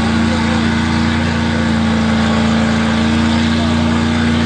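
Gas pickup truck engine held at high, steady revs under load while pulling the weight sled.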